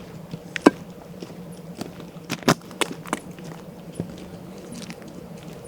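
Scattered sharp clicks and crackles, a few strong ones about a second in and in the middle, over a faint steady low hum.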